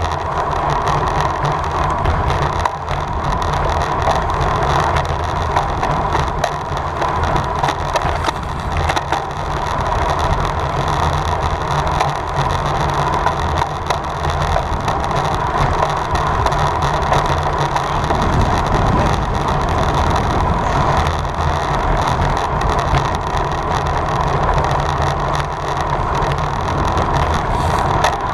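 Steady wind rush over the microphone of a camera on a road bike at race speed, with low tyre and road rumble underneath.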